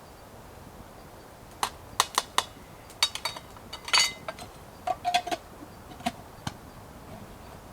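Eating utensil clicking and clinking against a metal cook pot, about a dozen sharp clinks spread over a few seconds, some ringing briefly.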